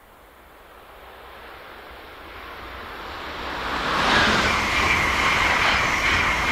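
Amtrak Acela high-speed electric trainset approaching and passing at speed: a rush of wheels on rail that grows steadily louder and peaks about four seconds in as the cars sweep by, with a high steady whine over it.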